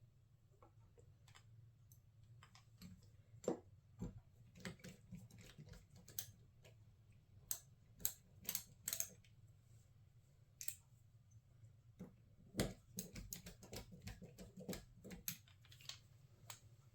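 Faint, irregular light clicks and taps of small screws, tools and metal parts being handled during an RC truck motor install, with a low steady hum underneath.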